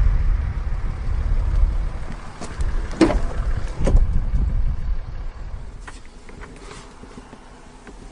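Motor vehicle's engine rumbling as it accelerates, with two sharp knocks about three and four seconds in, then fading away over the last few seconds.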